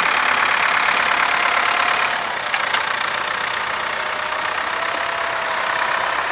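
Tractor engine running steadily under load while ploughing, a dense even drone with a faint steady whine joining about halfway through.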